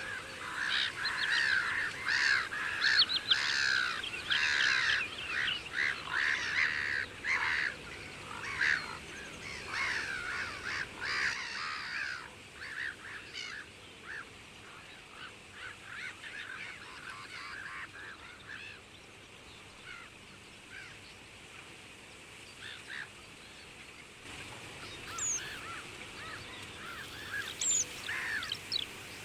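Many water birds calling at once, a dense stretch of short calls for the first dozen seconds, then sparser, with calls picking up again near the end.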